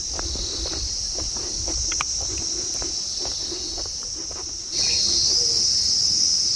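Steady high-pitched chorus of insects buzzing in forest, which jumps louder about three-quarters of the way through, with scattered faint clicks underneath.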